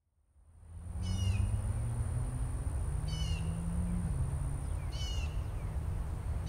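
A bird gives a short, high, downward-sliding call four times, about two seconds apart, over a steady low rumble and a thin steady high tone.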